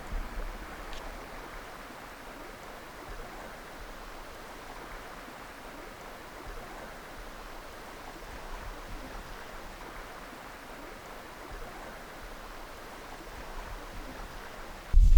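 Steady rush of flowing river water, the even sound of a stream or rapids.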